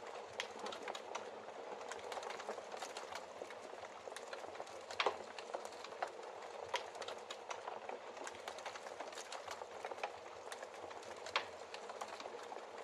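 Wood fire burning in a fireplace: a steady hiss with irregular crackles and sharp pops from the burning logs, the loudest about five seconds in and again near the end.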